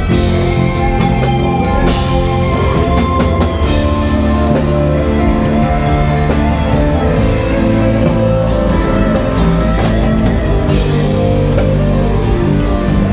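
Rock band playing live, electric guitars and drum kit, in an instrumental passage without vocals.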